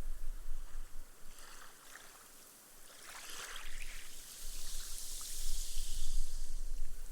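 Small, gentle waves washing up on a sandy beach. A ripple breaks with a crackling, fizzing splash about three seconds in, then a high hiss of foam as the wash soaks into the sand.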